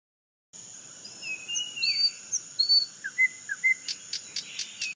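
Recorded forest birdsong: several birds whistling short, sliding notes over a steady high-pitched drone, then a fast series of sharp chirps, about four a second, near the end. It starts abruptly out of silence and cuts off just as abruptly.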